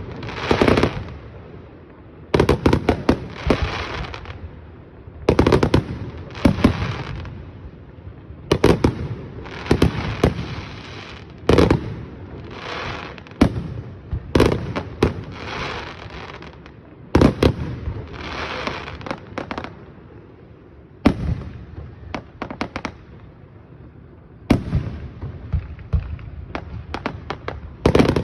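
Aerial fireworks going off in a steady barrage: sharp bangs every few seconds, many followed by a second or two of crackling.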